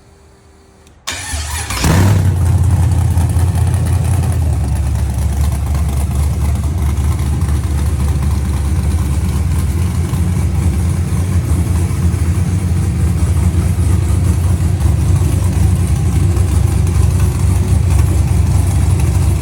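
6.0-litre LS V8 with LS3 heads and a stage 3 cam being started: the starter cranks about a second in, the engine catches and flares up in revs just under a second later, then settles into a steady idle.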